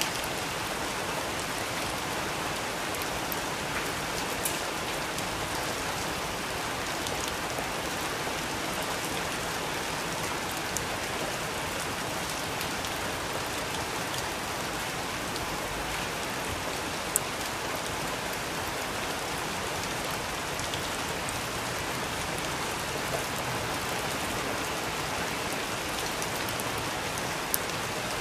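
Steady rain falling on a surface, an even hiss, with a few sharp ticks standing out now and then.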